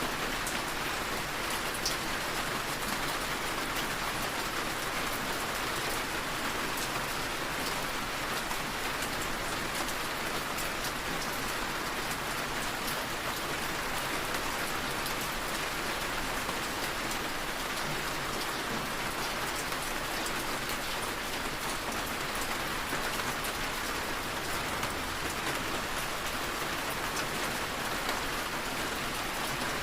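Steady rainfall, with a dense patter of drops tapping on a window.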